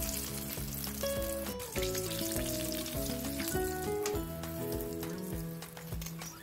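Chicken pieces deep-frying in hot oil: a steady sizzle with scattered crackles. Background music with a melody of held notes plays over it.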